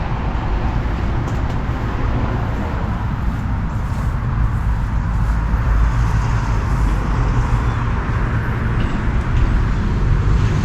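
Truck engine running steadily, a constant low hum with no changes in speed.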